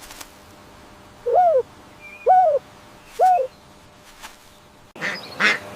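A bird giving short hooting calls, three in a row about a second apart, each rising and then falling in pitch. A louder, harsher animal call cuts in near the end.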